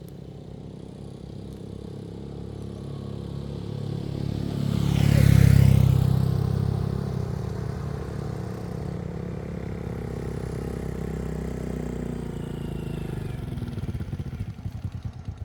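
A motor vehicle engine running. It grows louder to a peak about five seconds in, as if passing close, then runs on steadily, with a quick pulsing just before the end.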